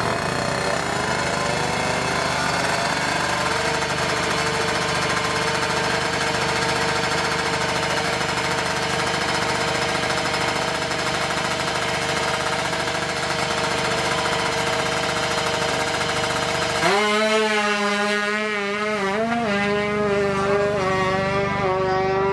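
Tuned two-stroke motorcycle engine running at steady high revs. About three-quarters of the way through it changes abruptly to revs rising and falling.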